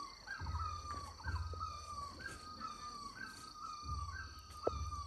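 A bird calling a short note that jumps up and slides down, repeated over and over at an even pace, over a steady high-pitched hum.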